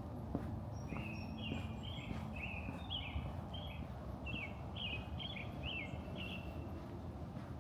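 A small bird chirping, a quick run of short calls over about five seconds, against a steady low outdoor background rumble.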